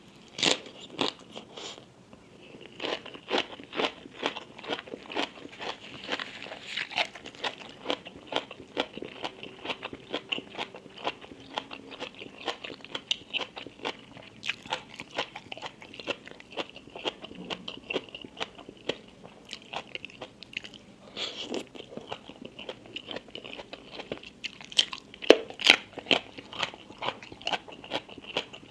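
Close-miked eating: a steady run of crisp crunching bites and chewing, with many sharp crackles, the loudest crunch coming about a second in and a cluster of loud ones near the end.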